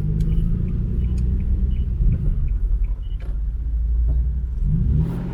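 Car engine running with a steady low rumble; the revs rise briefly about two seconds in and again near the end.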